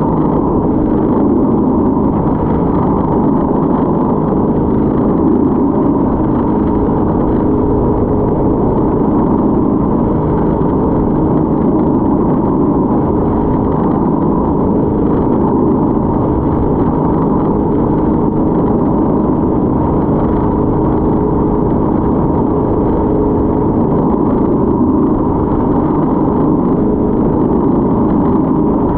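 Motorboat engine running steadily at speed, heard from aboard, with an even, unchanging drone.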